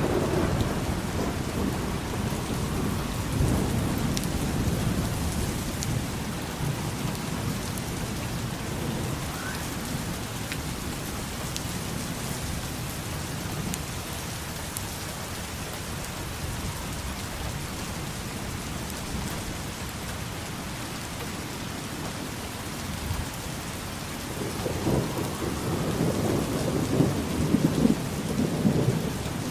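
Steady heavy rain with low rolling thunder, rumbling in the first few seconds and swelling again near the end.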